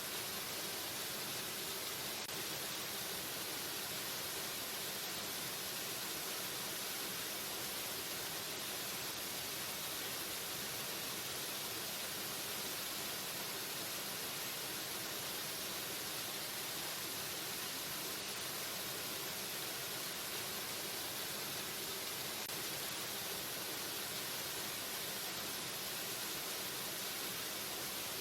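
Waterfall: a steady, unbroken rush of falling water with a bright, hissy edge.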